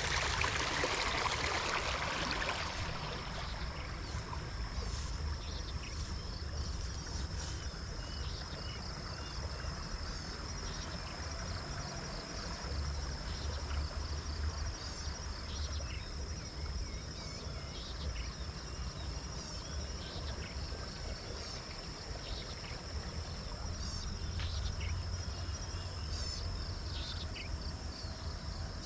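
Insects trilling steadily in a rice field, with scattered short bird chirps over it. Running water is heard at the start and fades away within the first couple of seconds.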